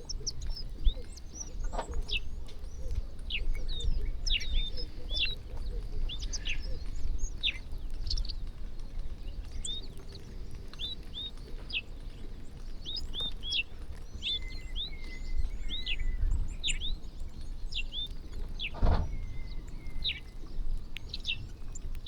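A flock of small birds chirping busily at a feeding spot, many short high chirps and quick downward notes overlapping without pause. A low rumble runs underneath, and there is a single knock near the end.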